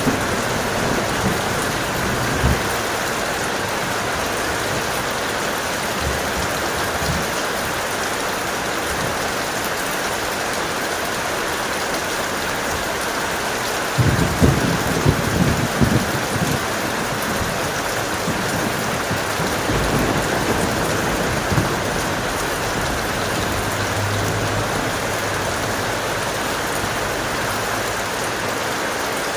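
Steady heavy rain falling, with a low rumble of thunder rolling in about halfway through and a fainter rumble shortly after.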